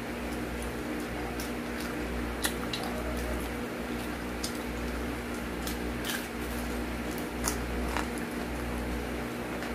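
Close-up eating sounds of a person chewing fried chicken: scattered wet mouth clicks and smacks, several of them sharp. A steady low hum lies under them.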